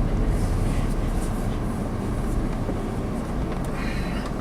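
Steady low engine and road rumble heard inside a car's cabin, easing off slightly as the car slows to pull in.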